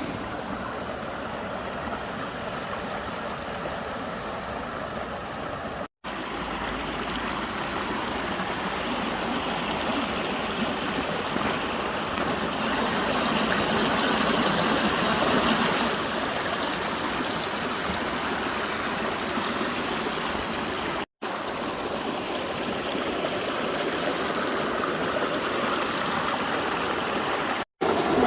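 Creek water flowing steadily, a continuous rushing. It cuts out for an instant three times where short clips are joined.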